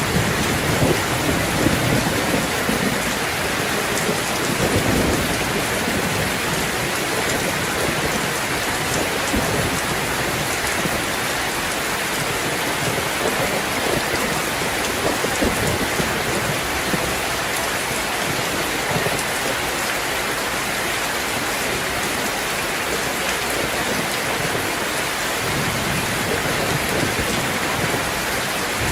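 Steady, heavy rain falling, with low rumbles of distant thunder in the first few seconds and again near the end.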